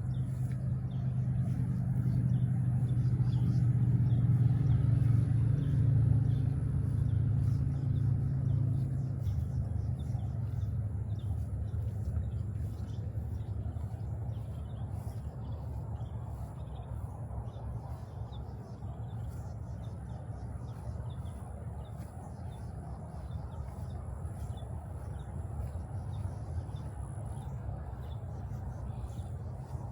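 Low engine rumble that swells over the first few seconds and then slowly fades away.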